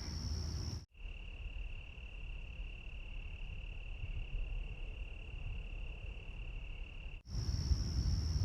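Night insects trilling steadily in one continuous high tone; about a second in it cuts to a lower-pitched steady trill, and near the end cuts back to the higher one, with a low rumble of background noise beneath it.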